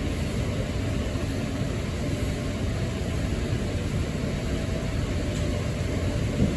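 Steady low mechanical rumble with a light hiss and a faint steady hum: the running ambience of a boat ride moving through a greenhouse.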